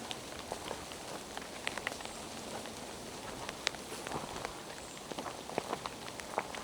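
Rain falling in a forest: a steady hiss with many scattered drops tapping close by at irregular moments.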